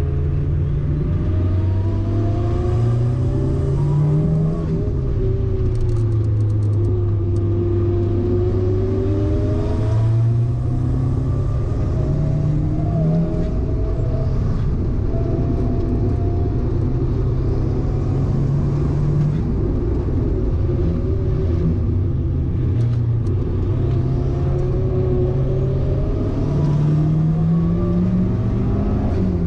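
Car engine heard from inside the cabin while lapping a race circuit, its pitch climbing under acceleration, dropping back at gear changes and braking, and holding steady in between, over constant tyre and road noise.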